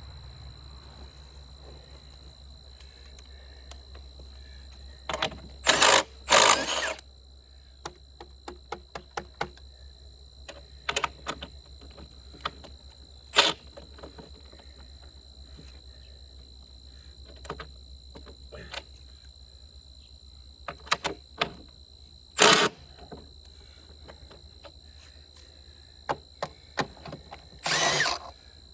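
Tools at work on old sawmill arbor parts being taken apart: scattered metal clinks and knocks, with a few short loud bursts that sound like a power tool, two close together about six seconds in and a longer one near the end.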